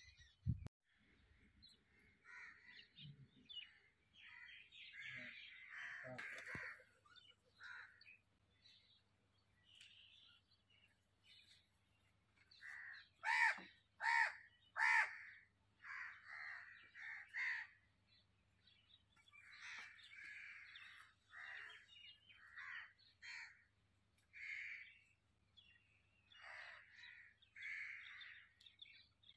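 Birds calling from the trees, many short calls one after another, with three loud harsh caws in quick succession about halfway through.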